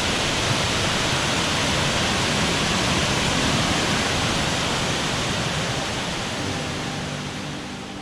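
Waterfall rushing, a steady dense roar of falling water. Near the end it fades down as soft ambient music with sustained gong-like tones fades in.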